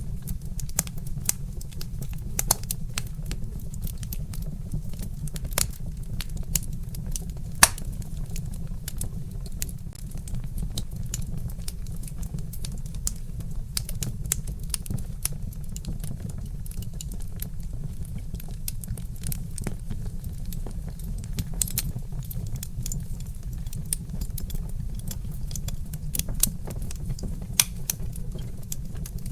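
Wood fire crackling: irregular sharp pops and snaps from burning logs over a steady low rumble, with one louder pop about seven and a half seconds in.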